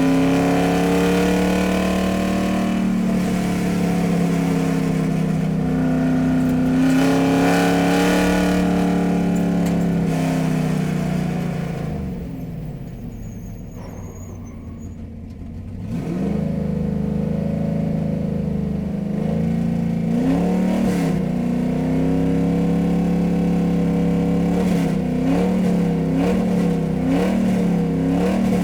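Car engine running hard with its pitch rising and falling. About twelve seconds in it eases off to a quieter, lower hum, picks up again about four seconds later, and near the end it revs up and down in quick repeated swells.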